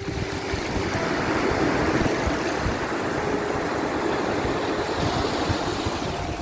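Ocean surf: waves washing steadily, swelling a little about a second in, with faint held notes of soft background music over it.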